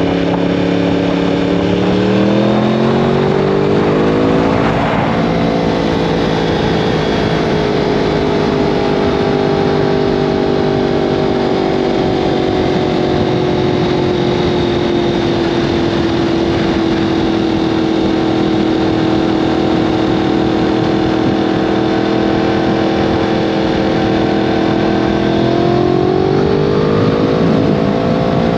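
Yamaha R1M crossplane-crank inline-four engine running through an Akrapovic exhaust. Its note climbs over the first few seconds, eases slowly down and holds steady through the middle, then climbs again near the end.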